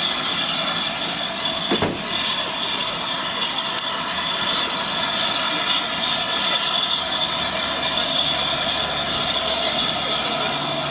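Steam locomotive standing with steam hissing steadily, with a single sharp knock about two seconds in.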